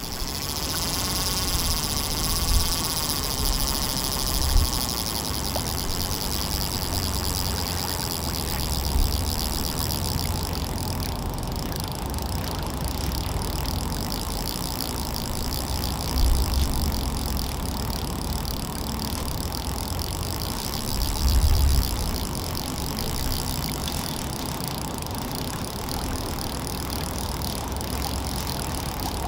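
Wind buffeting the microphone, a low uneven rumble that gusts up around a quarter and three quarters of the way through, over a steady outdoor hiss.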